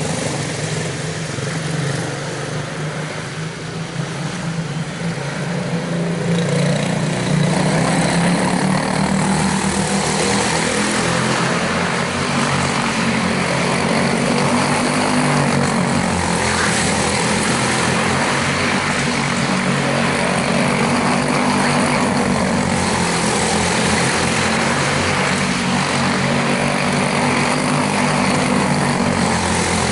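Quarter-midget race cars' small single-cylinder Animal engines running around the track. Their pitch rises and falls as they lap, and the sound gets a little louder after about six seconds.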